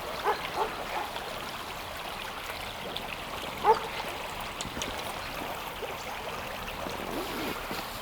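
A river murmuring: steady running water. A few brief high-pitched sounds rise over it near the start, and the loudest comes about three and a half seconds in.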